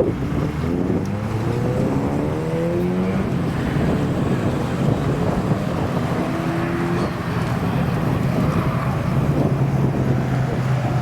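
Car engine accelerating away, its note rising in steps over the first few seconds, with a steadier engine note later on. Wind buffets the microphone throughout.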